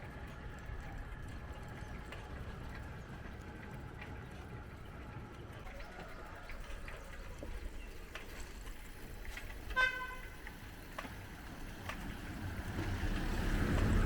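Steady low road-traffic rumble with one short vehicle horn toot about ten seconds in, then a vehicle approaching and passing close near the end.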